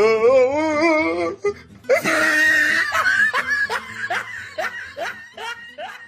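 A person laughing: a wavering, warbling laugh, then a higher shriek of laughter, then a run of short falling "ha" bursts that trail off.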